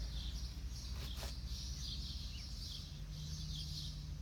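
Birds chirping steadily, over a low steady hum, with a couple of faint knocks about a second in.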